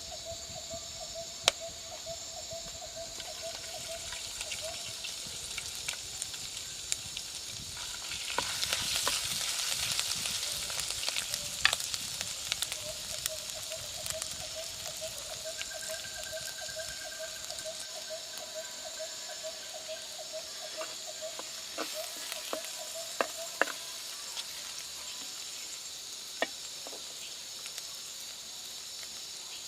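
Food sizzling in oil in a pan, with stirring and the occasional sharp knock of a utensil against the pan. The sizzle swells louder for a few seconds about eight seconds in.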